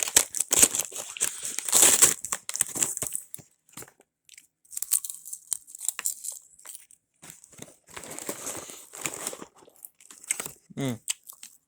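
Crinkling and rustling of a bag of microwave popcorn, with crunching of popcorn being eaten, coming in several clusters.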